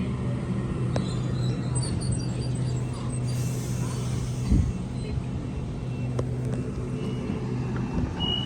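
Steady low hum of an idling vehicle engine or motor, with a single dull thump about four and a half seconds in.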